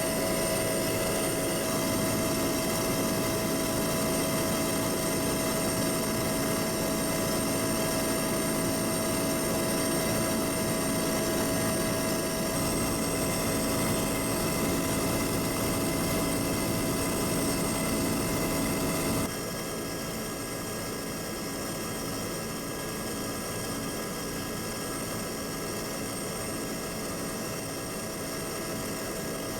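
Steady aircraft engine drone heard from inside the cabin, a dense hum with several constant tones. About two-thirds of the way through it suddenly drops to a quieter level and carries on steadily.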